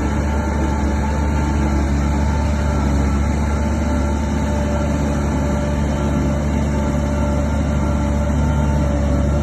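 Bulldozer diesel engine running steadily with a deep hum and a few held tones above it.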